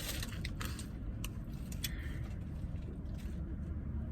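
Steady low rumble of a running car heard from inside the cabin, with a few light clicks and rustles of food packaging.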